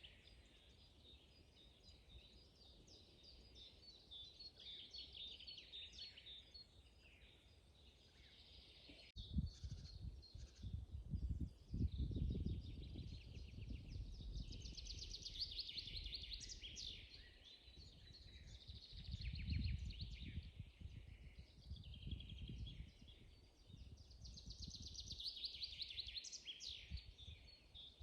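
Several songbirds singing in a spring forest, with rapid trills among the songs. From about a third of the way in, a low, gusty rumble comes and goes under the birdsong and is at times louder than it.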